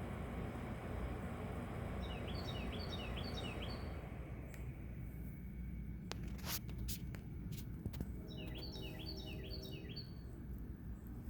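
A songbird sings two short phrases of quick, repeated down-slurred notes, one about two seconds in and another near the end. Between them come a few sharp clicks, over a steady low background hum.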